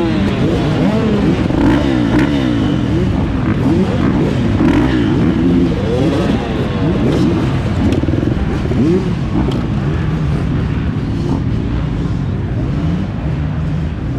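2024 Beta 430 Race Edition's four-stroke single-cylinder engine revving up and down as the dirt bike is ridden through the gears, its pitch rising and falling again and again. It settles into a steadier, lower drone in the last few seconds.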